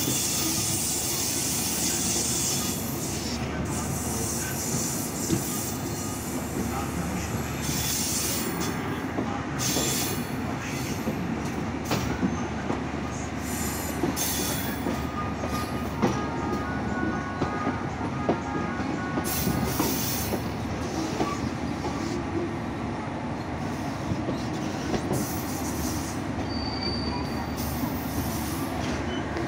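Broad-gauge passenger coach rolling along the track, heard from its open door: a steady rumble of wheels on rail with scattered sharp clicks over rail joints and points, and a faint wheel squeal about midway.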